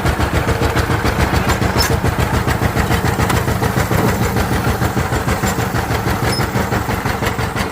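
Diesel engine running steadily, with a fast, even beat of firing pulses.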